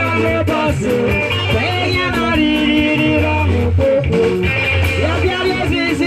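Live band music: guitar lines that bend in pitch over a steady, heavy bass.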